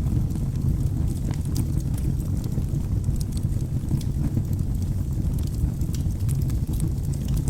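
Wood fire burning in a fireplace: a steady low rumble of the flames with frequent small, sharp crackles and pops from the logs.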